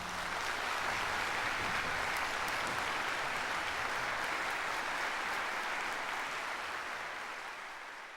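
Concert hall audience applauding after a piece ends, an even steady clapping that fades away near the end.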